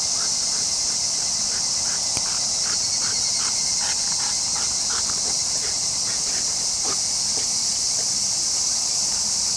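Steady, high-pitched chorus of insects in summer evening greenery, with faint short sounds underneath.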